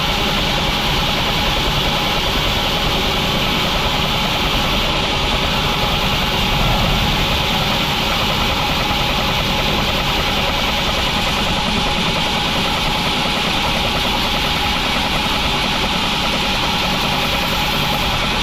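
Sawmill machinery running steadily, a continuous engine-like drone with a fast flutter and no break.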